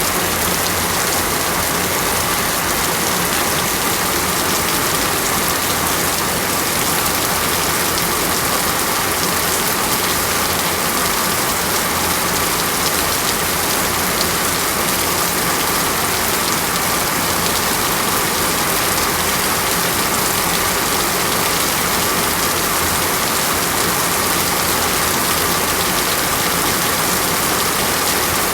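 Heavy, steady rainfall in a tropical rainforest: a dense, even hiss of rain with no breaks or single loud events.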